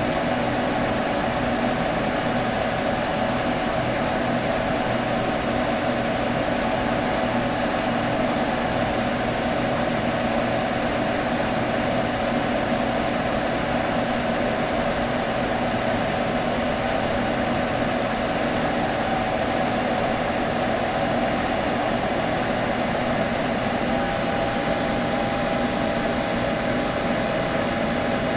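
Desktop computer humming steadily: fan whir with a few held tones over an even hiss. A faint higher tone joins about four seconds before the end.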